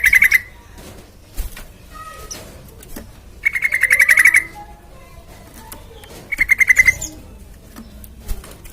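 Yellow-vented bulbul (trucukan) giving short, rapid chattering trills, each under a second long, repeated every two to three seconds, with faint chirps in between. This is a lure call meant to draw other trucukan to answer.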